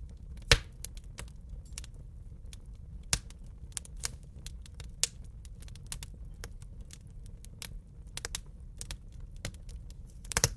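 Wood fire crackling in a fireplace: irregular sharp pops and snaps over a low steady rumble. The loudest pop comes about half a second in, with a quick cluster of pops near the end.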